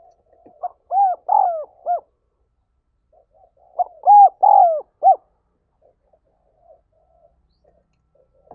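Spotted dove cooing: two phrases of about four coos each, the second following a couple of seconds after the first.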